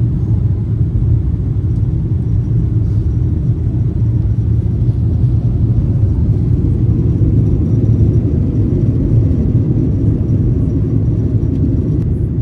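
Steady, even low rumble of a vehicle running, with no separate knocks or changes.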